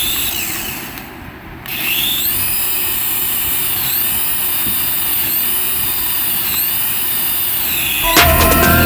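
A small electric motor whirring with a high whine. It fades briefly about a second in, then runs steadily, its pitch dipping and rising again every second and a half or so.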